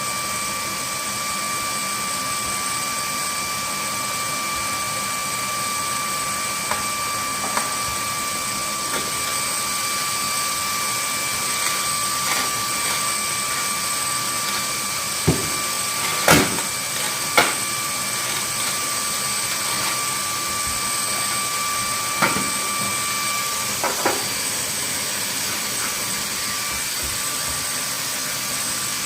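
Electric appliance motor running at a steady speed with a high whine. There are a few sharp knocks about halfway through, and one of the whine's tones drops out a little after that.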